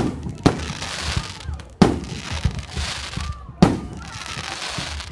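Fireworks display: aerial shells bursting with four sharp bangs, irregularly spaced, with hissing and crackling between them.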